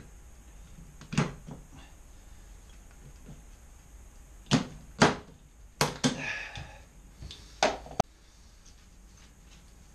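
A series of short, sharp knocks and clunks at irregular intervals, the loudest pair about four and a half and five seconds in: hard objects being handled and set down on a hard surface.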